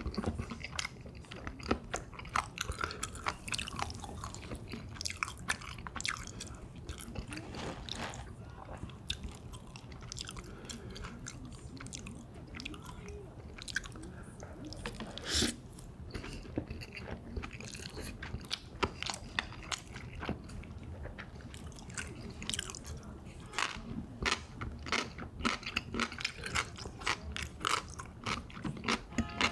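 A person eating close to the microphone: chewing and biting with many short, crisp crunches and clicks, coming thicker and louder near the end.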